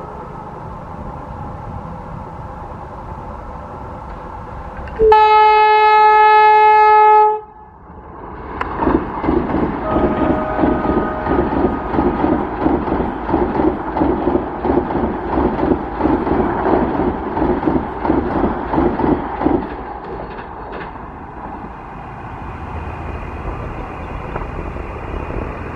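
Indian Railways express train sounding its horn in one long blast about five seconds in, then passing at speed with a fast, rhythmic clatter of wheels over the rail joints for about ten seconds. The clatter then drops away to a lower rumble with a thin high whine.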